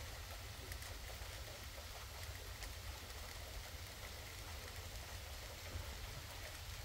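Steady rain falling, with faint scattered drop ticks over an even hiss and a low steady rumble underneath.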